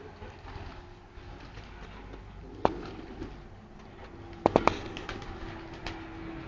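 Domestic pigeons cooing, a low steady coo that grows stronger in the second half. Sharp clicks break in once near the middle and three times in quick succession about two-thirds through.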